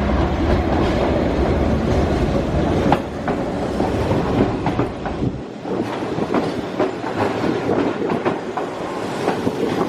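Keihan Ishiyama-Sakamoto Line train running past, its wheels clacking over the rail joints in repeated sharp clicks over a steady rumble; the deep low rumble drops away about halfway through while the clacking continues.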